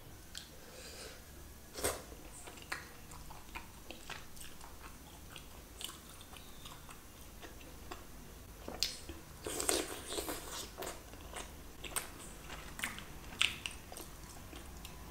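Close eating sounds of a mouth chewing spicy chicken curry with roti. Scattered wet smacks and clicks run through, with a denser run of smacking about nine to eleven seconds in.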